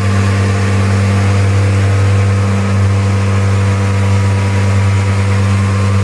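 ShS-1000 woodworking tenoning machine running steadily, its electric motors and cutter heads giving a constant low hum.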